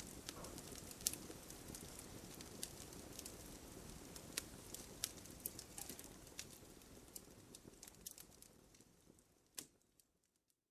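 Wood campfire crackling, with frequent sharp pops and snaps over a low rush of burning. It thins out and fades to silence near the end.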